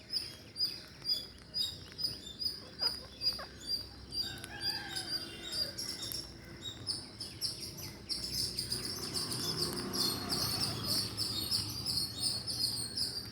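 Birds chirping: short, high chirps repeat about twice a second, with some lower whistled notes. The chirping grows busier and louder about two-thirds of the way through.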